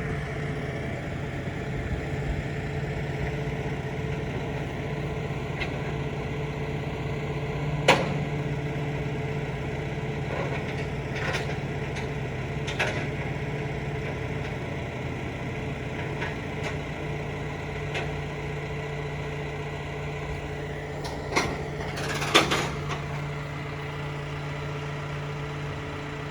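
Vehicle engine idling steadily while a car is unloaded from a car-carrier truck. There is a sharp knock about eight seconds in, a few lighter ticks after it, and a louder cluster of knocks near the end.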